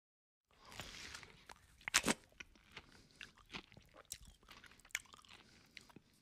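A man chewing a mouthful of rice and duck curry close to the microphone: wet mouth smacks and crunches starting about half a second in, with one sharp louder crunch about two seconds in.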